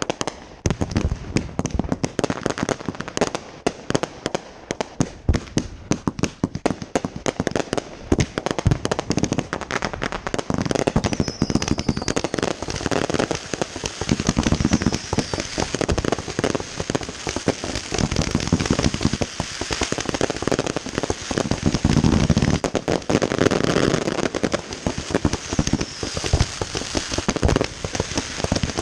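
Fireworks display going off in a dense, continuous run of sharp reports and crackling, with heavier booming shell bursts bunched in the second half.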